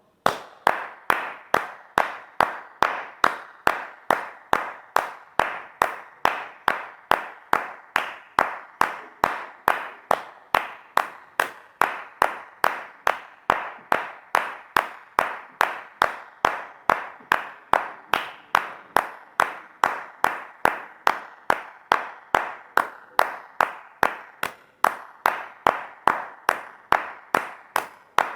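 Hand claps repeated at a steady, even pace, about two and a half claps a second.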